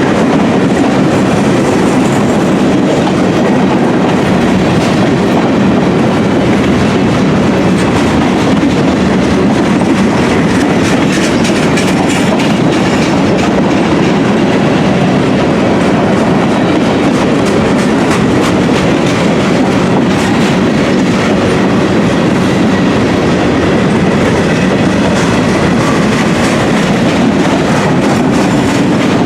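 Loaded freight train of gondola cars rolling past at steady speed: a continuous rumble of steel wheels on rail with irregular clicks as wheels cross rail joints.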